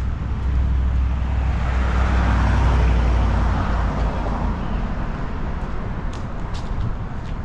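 A motor vehicle passing close by on a city street, its engine rumble and tyre noise swelling to a peak about two to three seconds in, then the rumble falls away and steady traffic noise goes on.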